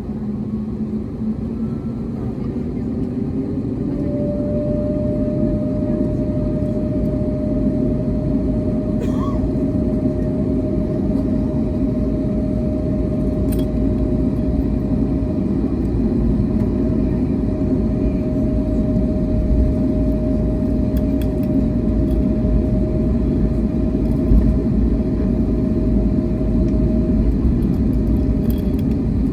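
Airbus A321neo engine noise heard from inside the passenger cabin: a steady rumble with a thin, steady whine over it that comes in about four seconds in and fades near the end, the whole growing slowly louder.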